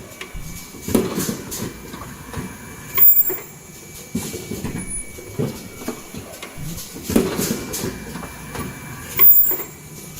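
Automatic N95 cup mask machine running through its cycle, with repeated mechanical clattering strokes. A sharp clack with a short high hiss comes about 3 s in and again near the end.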